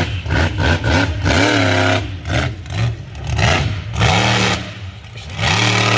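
Monster truck engine revving hard in repeated bursts, its pitch climbing and dropping with each blip of the throttle.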